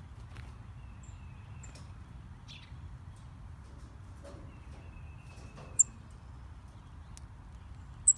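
Small songbirds chirping around a backyard feeder: scattered short, high chirps, with two sharp, loud ones about six and eight seconds in, over a steady low background rumble.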